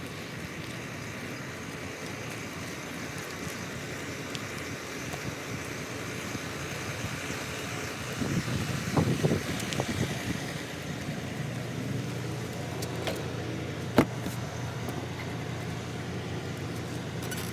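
A vehicle engine running steadily, with a low hum under an even background noise. A brief spell of louder handling or rustling comes about halfway through, and one sharp click a few seconds later.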